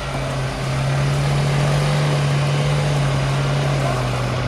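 A vehicle engine running under steady load, a constant low hum that holds its pitch throughout.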